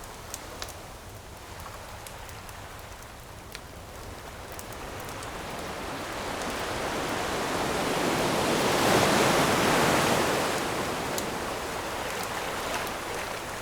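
An ocean wave swells, breaks and washes up, loudest about two-thirds of the way in before easing off. A few sharp pops of crackling campfire wood come in the first few seconds.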